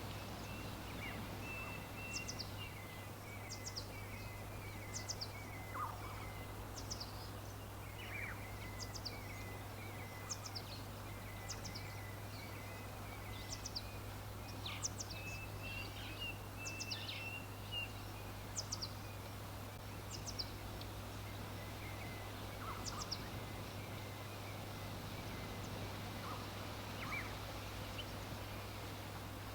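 Wild birds calling: short high notes that slide downward, repeated every second or two, over a lower run of chattering notes, with a steady low hum and a background hiss underneath.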